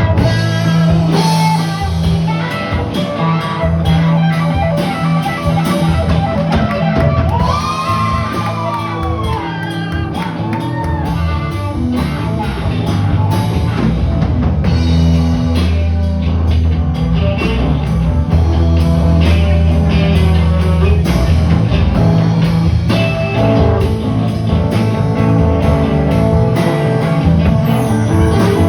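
Live rock band playing, with electric guitar and drums over a steady bass line.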